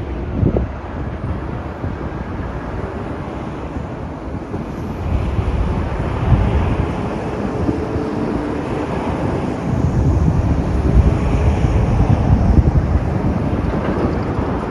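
Road traffic: vehicles passing on a highway, a low rumble of engines and tyres that swells about five seconds in and again from about ten seconds in.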